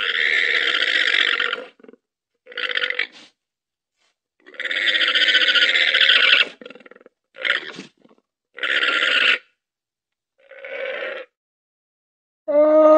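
Llama calling: six short raspy, breathy calls of varying length, then a pitched call with a clear tone near the end.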